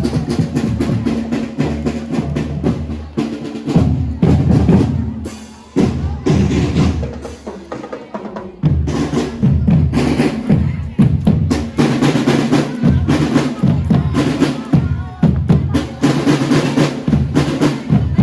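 Javanese ensemble music with busy drumming over sustained low notes. The loudness dips briefly about six and eight seconds in.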